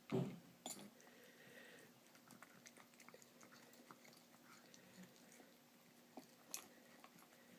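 Faint, scattered clicks of a cat chewing and licking wet food from a plate, with no sneezing, two days after cleft palate repair. A faint steady hum lies under it.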